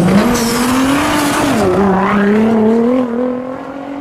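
Car engine revving hard while spinning tyres hiss in a burnout. The engine's pitch climbs in the first second, dips briefly near the middle, then holds before fading away near the end.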